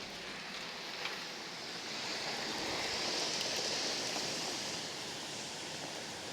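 Severe storm wind gusting, a steady rushing noise that swells about two seconds in and eases a little near the end.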